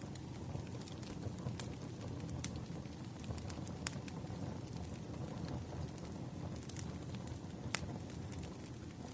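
Wood fire burning: a steady low rumble with sharp crackling pops scattered through it.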